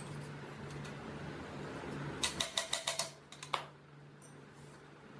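A quick run of about six light clicks a little over two seconds in, then two more about a second later, over a steady low hum: small parts of a cast-iron sewing machine mechanism being handled and fitted together.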